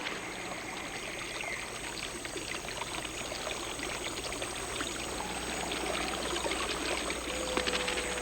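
Steady running water of a stream or river, with small trickling splashes.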